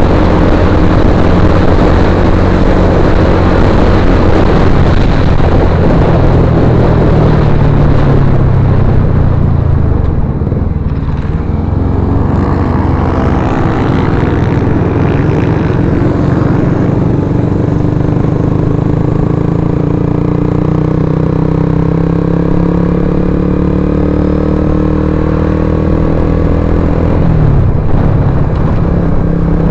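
Suzuki GSX-R150's single-cylinder engine through an aftermarket Akrapovic-style slip-on muffler, running under way. The engine note falls about ten seconds in, then rises steadily for some fifteen seconds and drops sharply near the end.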